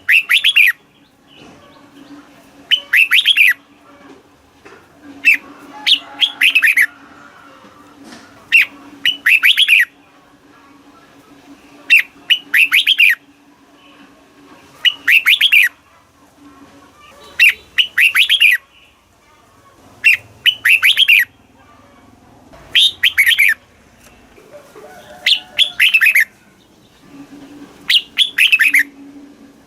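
Red-whiskered bulbul singing: a short phrase of quick, bright warbled notes, repeated about every three seconds.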